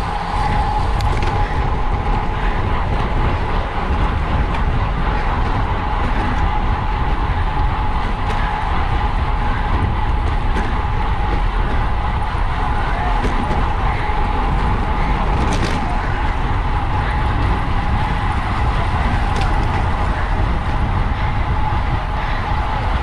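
Wind rushing over the microphone of a camera on a racing bicycle at speed, a steady low rumble with a thin steady whine running through it.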